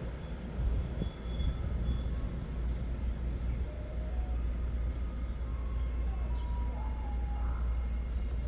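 Steady low rumble of a train running past, with a few faint thin tones above it and a click about a second in.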